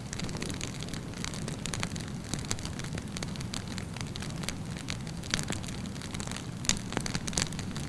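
Wood campfire burning: a steady low rush of flames under frequent sharp crackles and pops of burning wood, with a few louder pops near the end.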